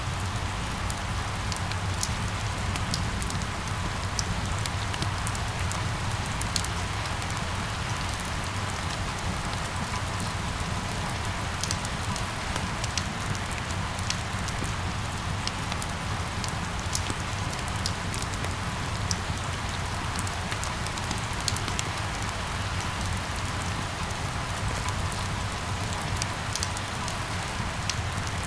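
Steady rain falling on hard surfaces, with many small drop ticks over a constant low city rumble.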